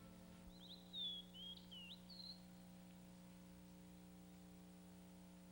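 A few faint, short, high-pitched bird chirps in the first half, over a steady low hum.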